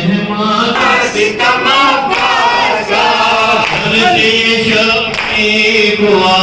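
A group of voices chanting a nauha, a Shia mourning lament, together in a continuous sung line.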